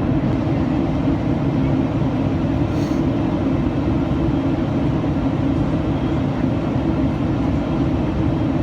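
Steady cabin drone inside a Boeing 737-800 in flight: the engines and the airflow over the fuselage, a constant low hum with a rushing hiss above it.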